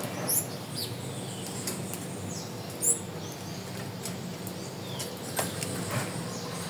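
Wild birds chirping and calling in short, high notes over a steady background hiss of natural surroundings, with two louder sharp chirps, one near the start and one about three seconds in.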